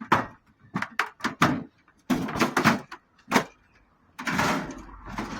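A run of sharp knocks and clatters, about a dozen in three seconds, some close together, then a longer noisy rush near the end.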